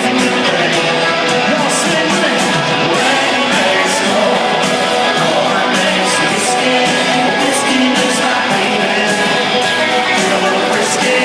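Live country-rock band playing loudly, electric guitars strumming over drums and cymbals, heard from the crowd through a phone microphone, thin in the bass.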